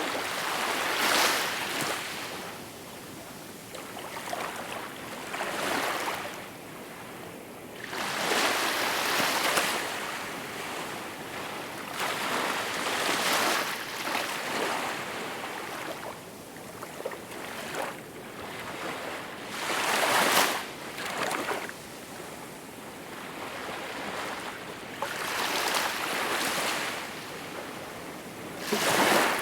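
Small waves breaking and washing in, a rush of water swelling and falling back about every four seconds over a steady hiss.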